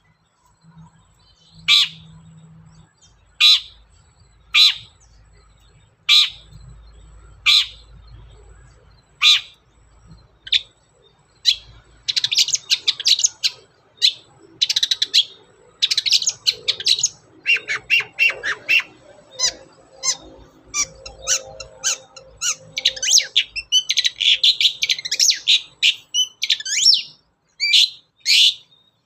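Long-tailed shrike (cendet) giving harsh single calls, one every second and a half or so. About twelve seconds in it breaks into fast, dense chattering song that runs for about fifteen seconds, then drops back to a few single calls near the end.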